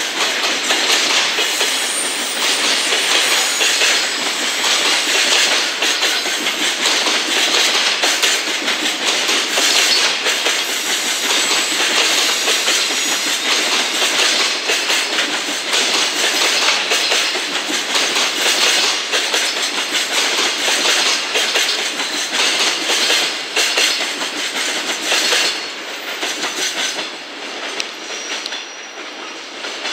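Container wagons of a long JR Freight train rolling past slowly through station turnouts, steel wheels clattering over the points and rail joints in a dense run of clicks. The sound fades over the last few seconds as the end of the train moves away.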